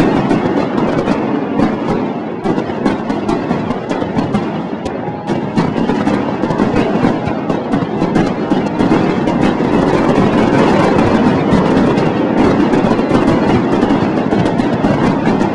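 Dense barrage of aerial fireworks: many bangs and crackles a second over a continuous rumble, thinning a little a few seconds in and then building again.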